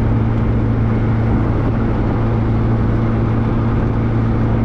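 Classic car cruising at a steady speed: a constant low engine drone with road and wind noise, heard from inside the car.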